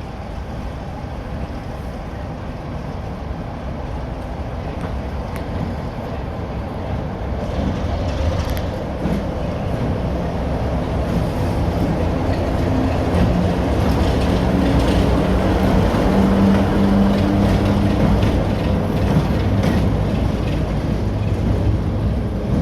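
Diesel locomotive engine getting steadily louder as it approaches, with a low engine drone coming through clearly over the second half.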